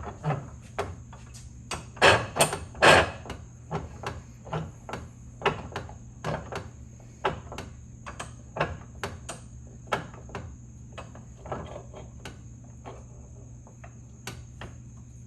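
Repeated hammer blows driving out a stuck part inside an old ratchet's head, about two sharp strikes a second. The hardest blows land two to three seconds in, and the strikes thin out and stop about a second before the end.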